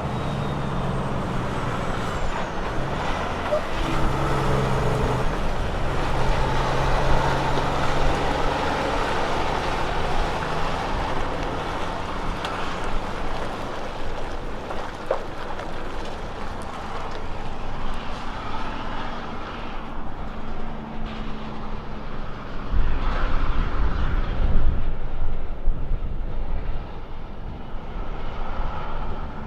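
Diesel engine of a road train prime mover running under load, its pitch stepping up and down several times as it changes gear. The engine sound grows louder and deeper for a few seconds about three quarters of the way through.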